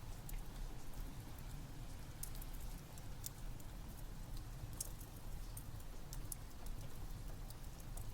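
Steady rain with a low rumble under it, and scattered sharp crackles from a wood fire.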